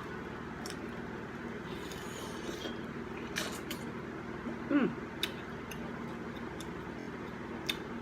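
Eating king crab: sharp clicks of crab shell being handled and cracked, scattered over a few seconds, with a brief falling "mm" from the eater about five seconds in. A steady background hum runs underneath.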